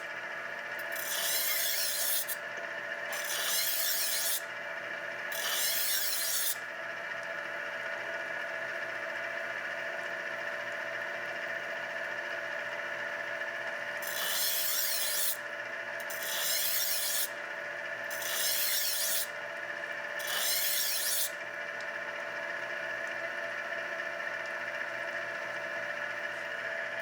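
Tru Hone HR8 knife sharpener running with a steady motor hum of several held tones, while a steel knife blade is drawn across its spinning honing wheels in rasping strokes of a second or so each. There are three strokes in the first several seconds, then four more in quick succession about halfway through.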